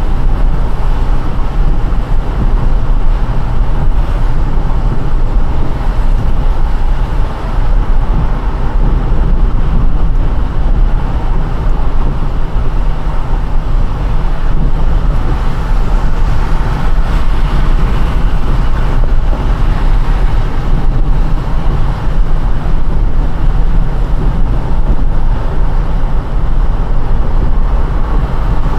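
A car driving on a rain-soaked road: a steady low rumble of engine and road noise, with the hiss of tyres on the wet surface.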